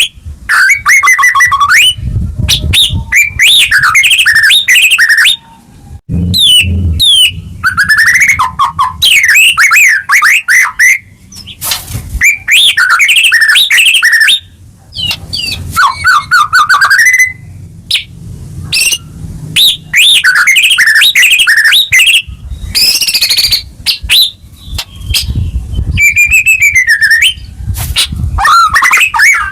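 White-rumped shama (murai batu) singing loud, varied song phrases: fast whistles, rising and falling sweeps and trills, broken by short pauses. This is a shama in full, emotional song ('gacor'). A low rumble sits under many of the phrases.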